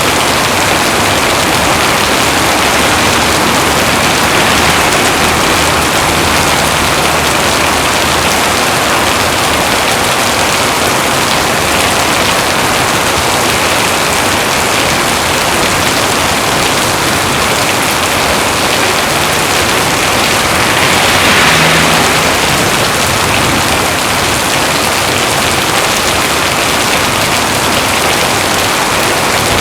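Heavy rain falling steadily in a dense, even hiss, swelling briefly about two-thirds of the way through.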